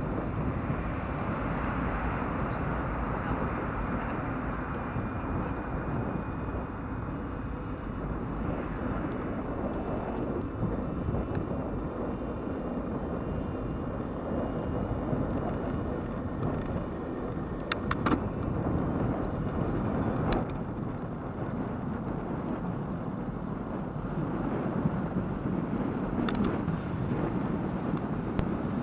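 Wind rushing over the microphone and tyre rumble from an e-bike on the move, a steady noise with a few short clicks or knocks around the middle and near the end.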